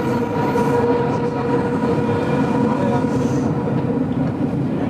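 GoldenPass Belle Époque train heard from inside the carriage while running: a steady rumble of wheels and running gear with a constant whine held at one pitch.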